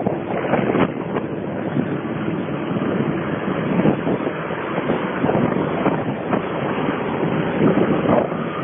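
Minneapolis-Moline G VI diesel tractor engine running under load in a tractor pull, with wind on the microphone.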